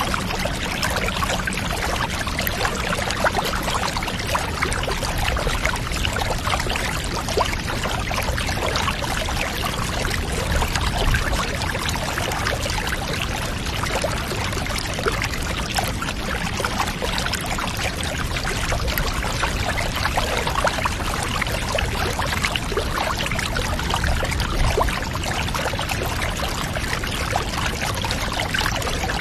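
Steady running water, pouring and trickling in a continuous, even stream, as bath water does.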